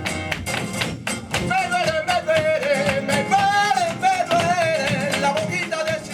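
Live flamenco tangos: flamenco guitar with many sharp percussive strikes, and from about a second and a half in a flamenco singer's voice carrying a long, ornamented line whose pitch wavers and slides.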